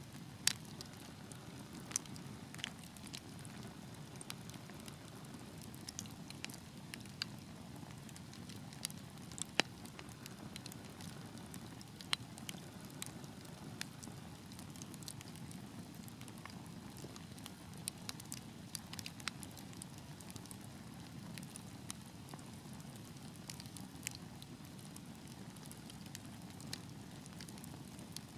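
Wood fire burning in a fireplace: a steady low rumble of flame with sharp crackles and pops at irregular intervals, a dozen or so louder snaps spread through.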